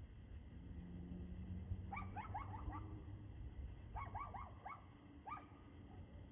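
Dog barking faintly in two quick runs of high, yappy barks about two seconds apart, then one more single bark.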